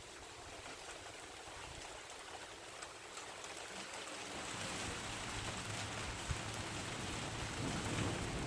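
Steady hiss of rain falling in a thunderstorm, with a low rumble of thunder building up from about halfway through and growing louder toward the end.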